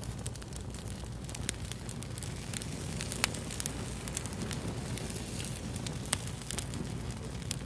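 Wood fire crackling, with frequent sharp pops and snaps over a low, steady rumble of flame.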